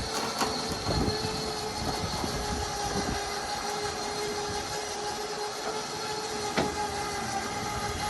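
Triple D motorcycle lift's motor running steadily as it raises the loading platform with a motorcycle on it: a steady whine with a few knocks and clicks from the lift mechanism.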